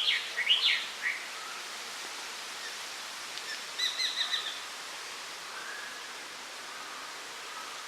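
Bird calls over steady outdoor background noise. A quick run of rising notes comes at the start, then a rapid chatter of about six high notes a little under four seconds in.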